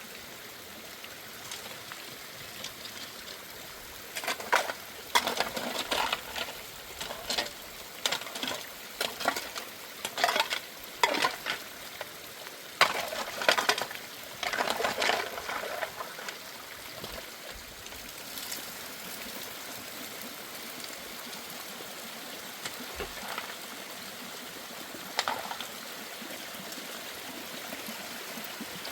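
A utensil scraping and clinking in a pot, as in stirring, in irregular strokes over a steady hiss; the strokes come mostly in the first half and a few more near the end.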